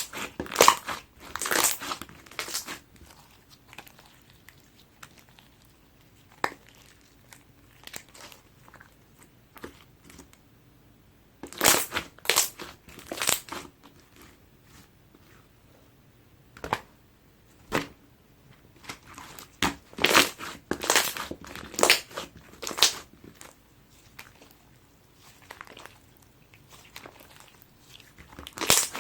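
Sky-blue clear slime being squished and pressed by hand, giving bursts of crackly clicks and pops, in clusters with quieter pauses between.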